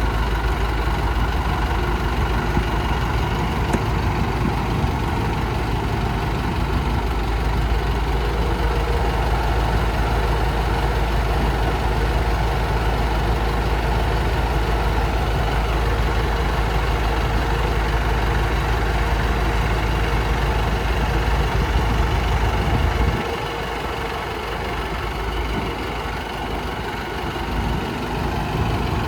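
Heavy diesel machinery running steadily with a deep, constant rumble; about three-quarters of the way through the low rumble drops away and the sound becomes quieter.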